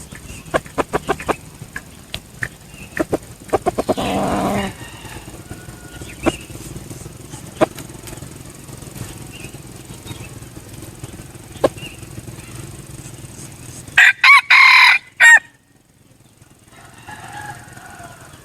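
A junglefowl cock crows once, loudly, about fourteen seconds in, and a fainter call follows near the end. Scattered sharp clicks and rustles come in the first few seconds.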